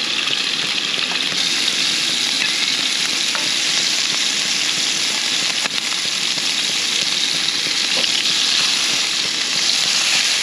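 Freshwater prawns (cherabin) sizzling steadily as they sear in hot vegetable oil in a frying pan, with a few light clicks of a spoon turning them. The sizzle grows a little louder near the end.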